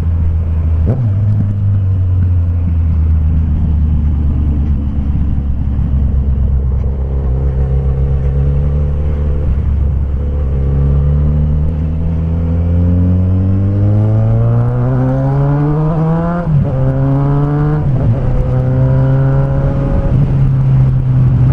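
Suzuki Bandit 1250's inline-four engine through a bare straight-pipe exhaust with no silencer, running steadily, then revving up in a long rising climb under acceleration. About three quarters through the pitch drops sharply at a gear change, climbs briefly again, drops at another shift, and settles to a steady cruise.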